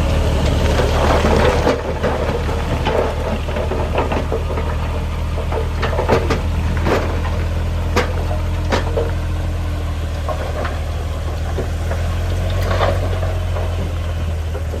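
Heavy diesel engine of earthmoving equipment running steadily at a low pitch, with scattered sharp knocks and clanks.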